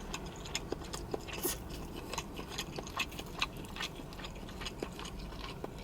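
A person chewing a mouthful of tandoori chicken close to the microphone: a run of small, irregular wet mouth clicks and smacks.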